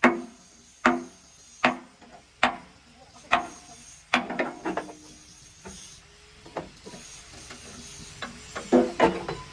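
A hammer striking metal in repeated blows, roughly one every 0.8 seconds, each with a short metallic ring.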